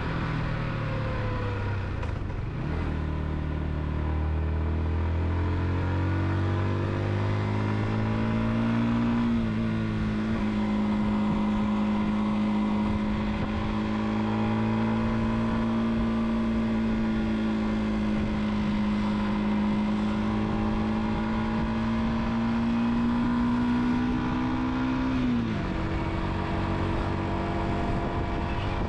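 Car engine running while driving. Its pitch climbs as it accelerates, holds steady for a long stretch of cruising, then drops sharply near the end as the revs fall.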